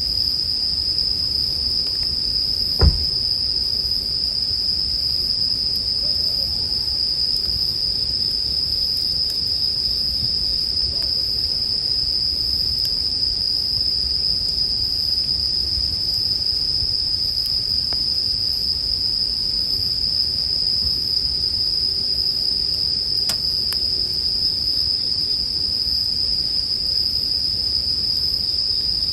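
Japanese bell crickets (suzumushi) singing in a steady, unbroken high chorus over the low rustle of a campfire, with one sharp pop from the fire about three seconds in.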